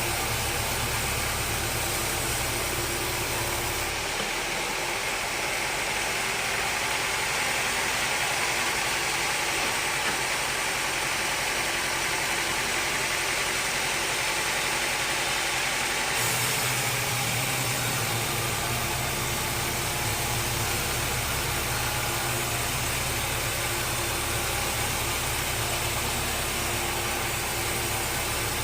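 Sawmill machinery running steadily with an engine-like drone. From about four seconds in to about sixteen seconds the low hum drops away and a brighter hiss comes up, then the low drone returns.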